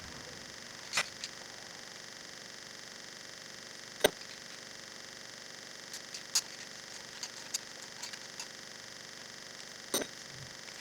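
A few scattered sharp clicks and knocks of tools and engine parts being handled during engine teardown, the loudest about four seconds in, over a faint steady hiss.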